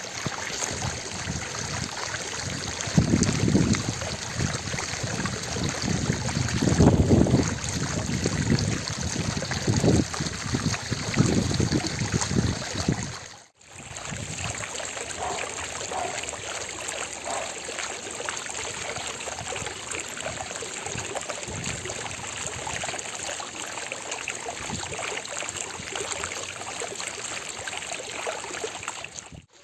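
Fountain water splashing steadily into its basin, a constant rushing hiss. In the first half heavier low surges come and go; about halfway through the sound drops out for an instant, then the steady splashing resumes.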